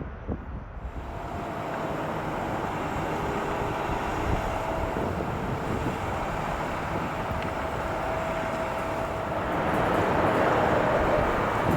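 Jet airliner engines, a steady rumble and hiss with a faint whine, growing louder toward the end as the plane comes closer. Wind buffets the microphone underneath.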